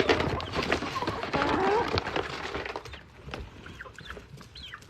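Chickens clucking and calling over a rustle of many small clicks for the first few seconds, then short, high, rising chirps toward the end.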